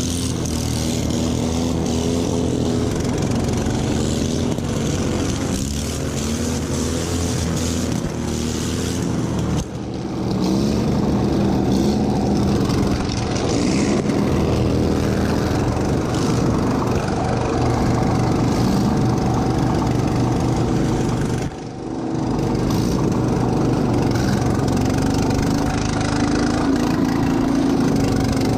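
Racing lawn tractor engine running hard, its pitch rising and falling as the throttle and load change, with two brief dips in level, about ten seconds in and a little past twenty seconds.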